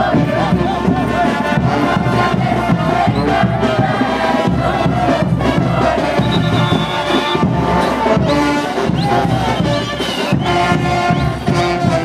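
Brass band playing diablada music loudly over a steady drum beat, with crowd voices underneath.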